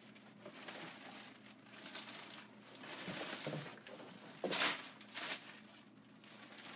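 Plastic packaging crinkling and rustling as a wrapped part is pulled out of its box, with a louder crackle about four and a half seconds in.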